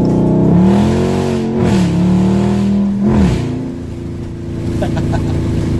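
Dodge Charger Daytona's HEMI V8 accelerating hard through a turn. The revs jump up about half a second in, hold high with a brief dip, then drop sharply about three seconds in to a steady lower drone.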